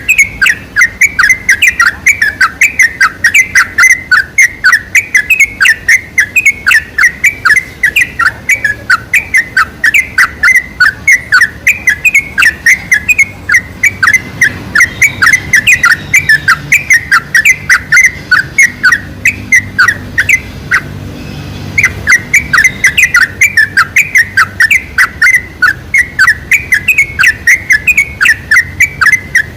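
Trucuk (yellow-vented bulbul) singing: a fast, continuous run of short chirping notes, several a second, with one brief pause about two-thirds of the way through. It is a lure recording of the song, used to set other trucuk singing.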